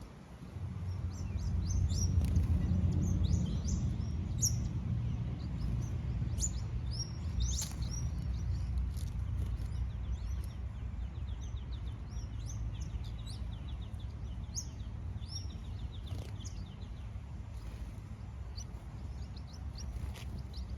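Red-capped parrots calling with short, sharp chirps, then a quick rapid trill through the middle, over a steady low rumble.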